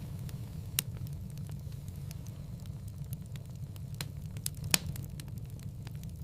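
Wood fire crackling in a fireplace: a steady low rumble of burning with scattered sharp pops, the loudest about a second in and another about three-quarters of the way through.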